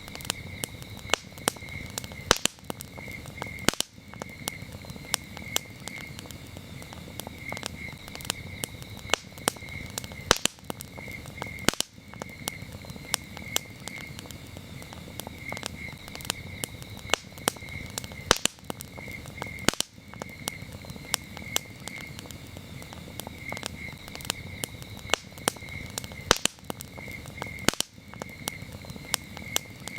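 Wood campfire crackling, with frequent sharp, irregular pops over a low rush of flame. Crickets chirp steadily behind it in a high, pulsing trill.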